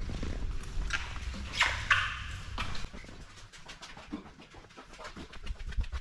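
Footsteps going down stairs: irregular taps and scuffs, with a louder scrape about two seconds in. Wind rumbles on the microphone for the first three seconds and then drops away as they move indoors.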